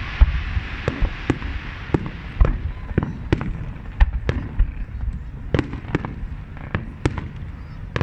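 Aerial fireworks bursting: irregular sharp bangs, about a dozen, over a continuous low rumble of distant explosions. A crackling hiss in the first couple of seconds fades out.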